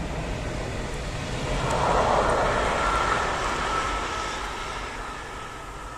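Electric locomotive hauling a single passenger coach passing by: wheel and rail noise swells to a peak about two seconds in, then fades away, with a thin steady whine through the middle.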